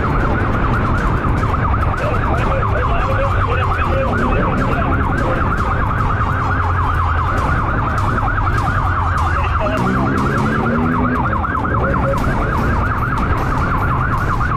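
Police car siren sounding in a fast, continuous warble, over the steady low rumble of the car's engine and road noise.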